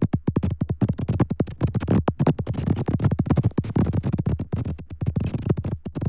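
Dense, rapid crackling and scratching, a stream of sharp clicks several times a second.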